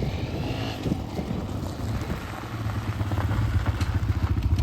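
Kawasaki KLX140 dirt bike's single-cylinder four-stroke engine idling steadily.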